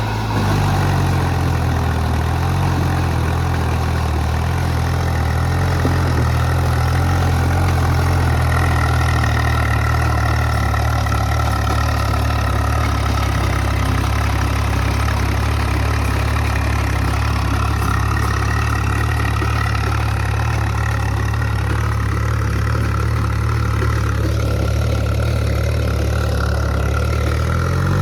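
Tractor diesel engine running steadily at an even speed, a deep unchanging drone with no revving.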